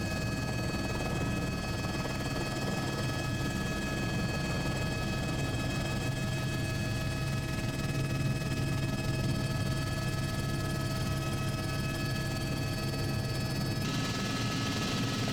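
Helicopter in flight, its engine and rotors running steadily with a low hum and a few steady whining tones; near the end the sound changes and becomes hissier.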